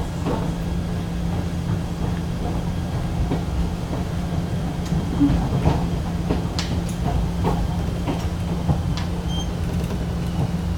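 Fuji Kyuko 1000 series electric train running: a steady low rumble with a constant hum, and scattered clicks of wheels over the rails.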